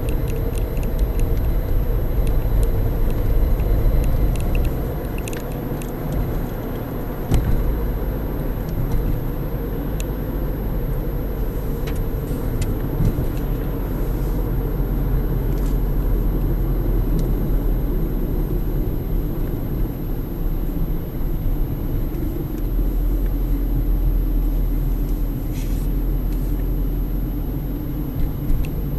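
Car driving: a steady low rumble of engine and road noise, with scattered light clicks and knocks, one sharper knock about seven seconds in.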